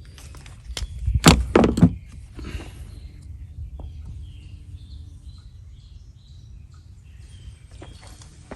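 A brief burst of clattering and knocking about a second in, then faint bird chirps over a steady outdoor background.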